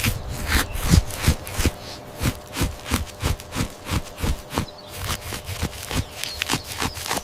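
A steady run of soft thuds or knocks, about three a second.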